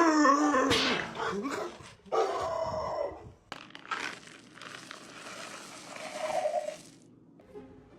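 A dog's whining, yelping cries: a pitched, wavering cry about a second long at the start and another about two seconds in, followed by a softer rushing noise.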